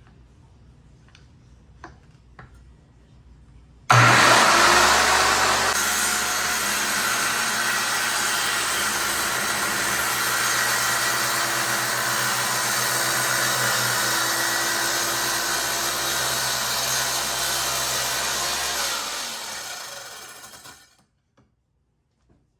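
RIDGID circular saw switched on about four seconds in, loudest at start-up, then running steadily as it cuts along the bottom of a wooden barn door. Near the end the saw's motor cuts out and the blade spins down over about two seconds to a stop.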